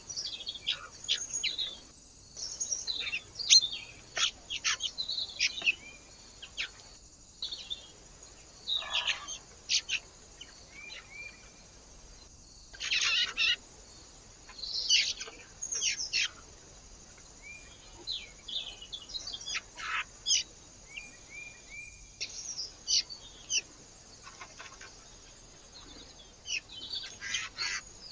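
Small wild birds chirping and calling in short, irregular bursts, with a few brief steady whistled notes among them. The sound drops out completely for an instant several times.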